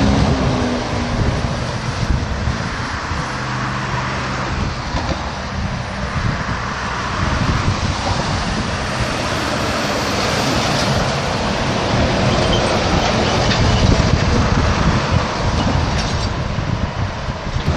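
Steady rumbling noise of a vehicle in motion: engine and road noise, loud and continuous.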